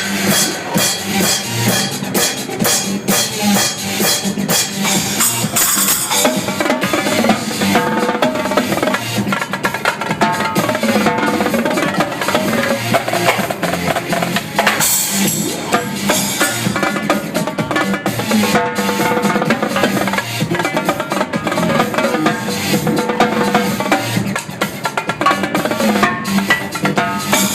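A live Mapex drum kit played over electronic dance music: bass drum and snare strikes with drum rolls, and Paiste cymbals crashing, in a dense, driving rhythm.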